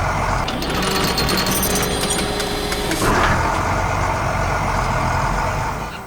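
Heavy construction machine's engine running steadily, with a rapid clattering from about half a second to three seconds in.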